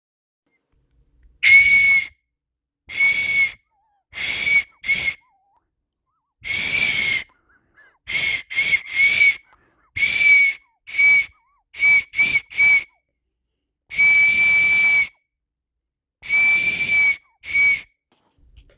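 A whistle blown in a series of about sixteen toots at one steady high pitch, some held for about a second and many short ones in quick runs of two or three.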